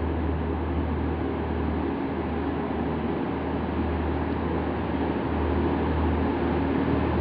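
TransPennine Express Class 185 diesel multiple unit running with a steady low drone as it pulls away, growing louder toward the end.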